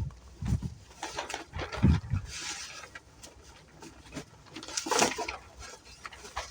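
Packaging rustling and crinkling as motorcycle parts are handled and unwrapped, with low thumps of wind buffeting the phone's microphone in the first two seconds.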